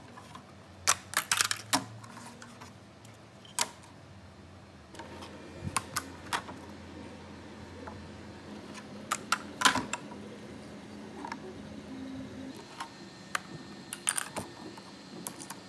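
Irregular sharp clicks and taps in small clusters, like hard parts being handled, over a faint steady hum.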